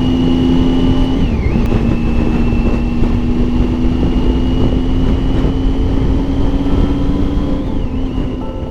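Triumph Tiger 800 XCx's three-cylinder engine running at a steady cruising speed, with wind and road rush heard from on the bike. The engine note dips briefly and comes back twice, about a second in and near the end.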